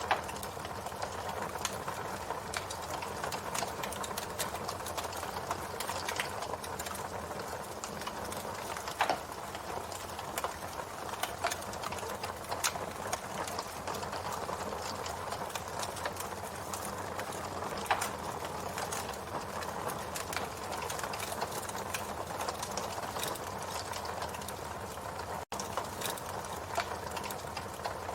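Wood fire burning: a steady hiss with frequent small crackles and snaps, and a few louder pops. The sound cuts out for an instant near the end.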